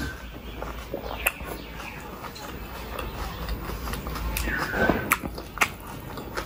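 Close-miked chewing of a mouthful of panipuri (golgappa), with wet mouth clicks and crunches and a louder squelch about five seconds in.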